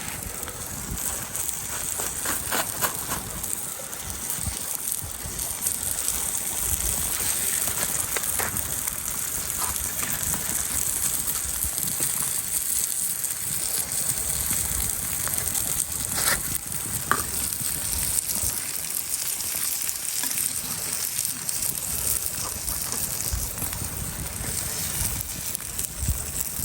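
Food frying on a hot cooking stone: a steady sizzling hiss with scattered sharp crackles.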